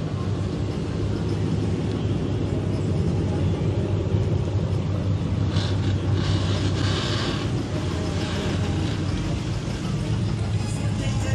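Car engine running steadily with a low rumble, with a short stretch of hiss around six to seven seconds in.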